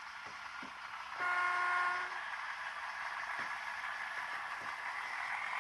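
Sound decoder of a OO gauge model diesel locomotive sounding one short horn blast, about a second long, over its engine running through the small onboard speaker, with a few faint clicks from the track.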